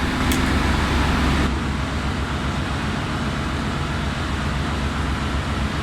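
Steady drone of ship engine-room machinery, a loud, even hum with a hiss on top that eases about a second and a half in.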